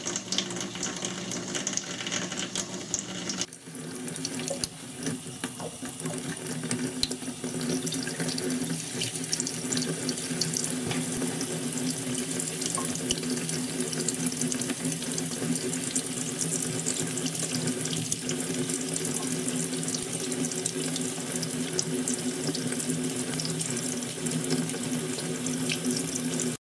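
Water running steadily from a tap into a sink, over a steady low hum. The sound dips and changes briefly about three and a half seconds in, then runs on evenly.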